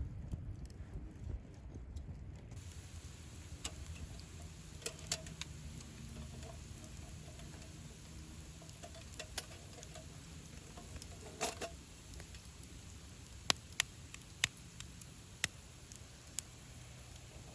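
Campfire cooking: scattered sharp crackles and pops, a few of them near the end standing out, over a low steady rumble.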